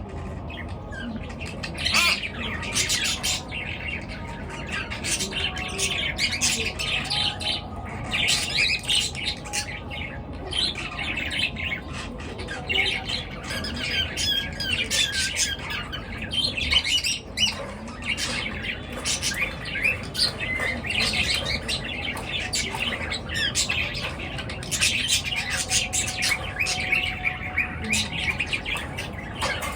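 Pet birds chirping and squawking continuously, many short calls overlapping.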